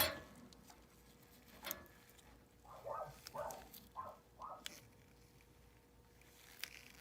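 Faint handling sounds from work on an air handler: a couple of clicks and a run of four or five short scuffing or rubbing noises about three to four and a half seconds in, over a faint steady hum.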